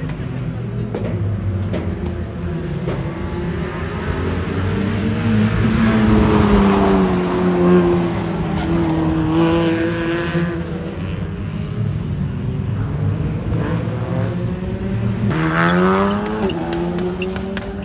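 Rally car engine running hard at speed, its revs rising and falling through gear changes and loudest about halfway through. About fifteen seconds in, a cut brings in another car with its revs climbing quickly.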